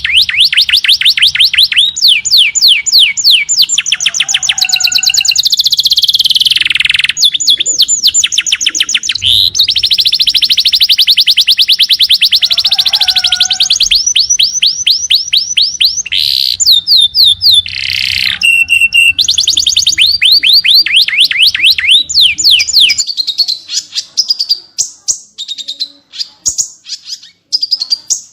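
Small songbird song of the rapid-fire 'tembakan' kind used as masteran: long, dense trills of sharp, high, quickly repeated sweeping notes, broken by brief pauses. In the last few seconds it thins to scattered single chips.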